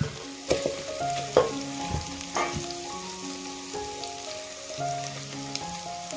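Wet stone-ground spice paste sizzling as it is dropped into hot oil in an aluminium pot, with a few sharp knocks in the first few seconds. Soft instrumental music plays underneath.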